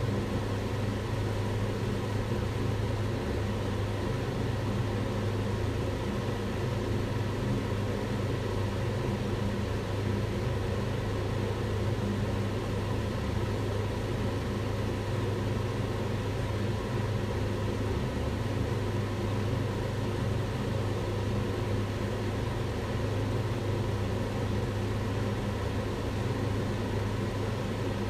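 Kitchen extractor hood running steadily: the even rushing of its fan with a low motor hum.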